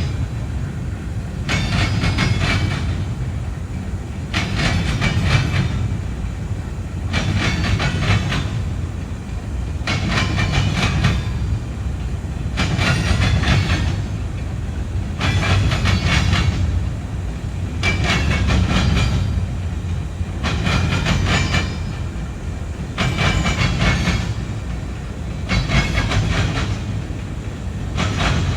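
Freight train cars rolling past at steady speed: a constant low rumble of the wheels, with a burst of clickety-clack about every two and a half seconds as each car's wheel sets cross the rail joints.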